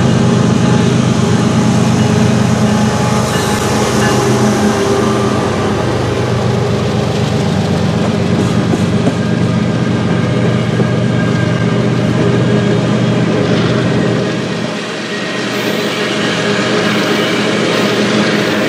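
CN freight train running past, a steady diesel locomotive engine drone over the rumble of the train. The low drone weakens about fourteen seconds in.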